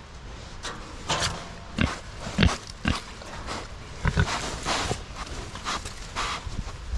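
Pigs grunting, a string of short irregular grunts.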